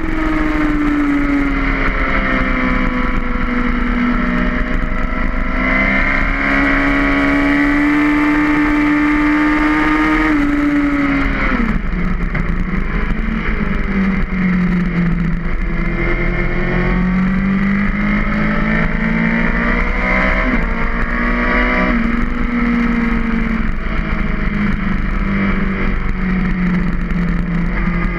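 Race motorcycle's engine at track speed, heard close up from a camera on its tail: the engine note climbs and falls with the throttle and gear changes, dropping sharply about twelve seconds in, over a rushing noise of wind and tyres.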